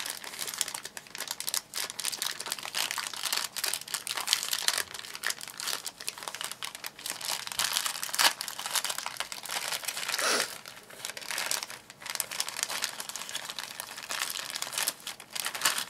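Toy packaging being crinkled and torn open by hand, an irregular run of crackling rustles with one louder rustle about two-thirds of the way through.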